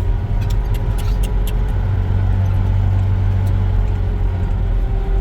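A motor vehicle's engine running steadily with a low drone, with a few light clicks about a second in.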